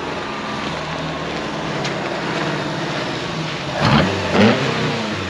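The freshly rebuilt V4 engine of a Lancia Fulvia Zagato 1600 running, with two quick revs close together about four seconds in.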